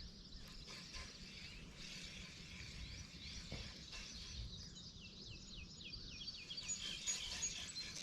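Quiet creekside ambience with birds singing: a quick run of falling chirps about five seconds in, and a few high thin notes near the end.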